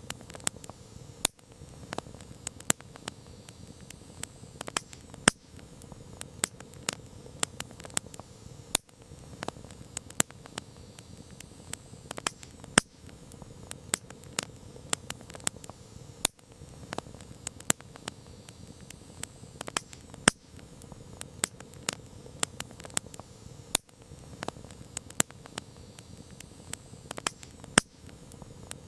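Campfire crackling: irregular sharp pops and snaps of burning wood, several a second and some much louder, over a steady low hiss of flames.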